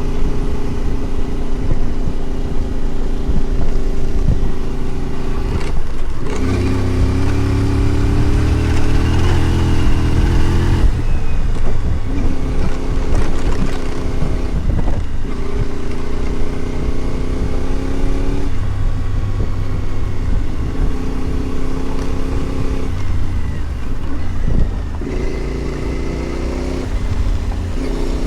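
Adventure motorcycle engine running under way, its note rising and falling several times as the throttle changes.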